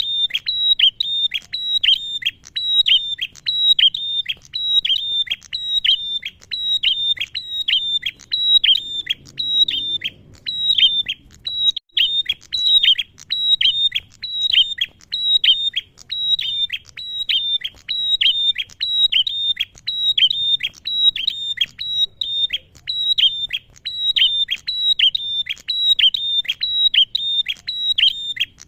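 Male prenjak (prinia) calling in a long unbroken series of short, sharply down-slurred notes, about two a second.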